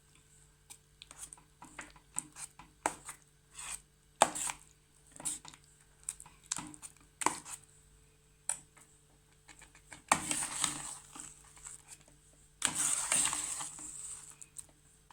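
A utensil knocking and scraping in a pan of mashed potatoes as they are folded and mixed on the stove, in irregular taps, with two longer, louder stretches about ten and thirteen seconds in.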